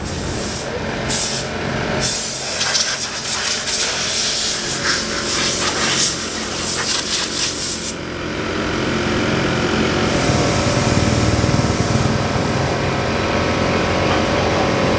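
Machinery running steadily, with a loud hiss over it that cuts off about eight seconds in.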